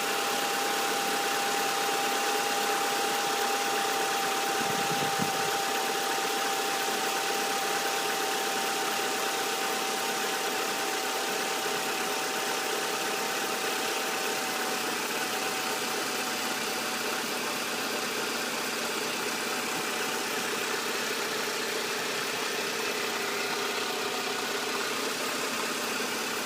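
Renault Megane 2.0 16v F4R four-cylinder engine idling after a cold start, with a steady high whine over the running engine that drifts slightly lower and fades out about halfway through. This whine is the strange cold-start noise the owner is showing.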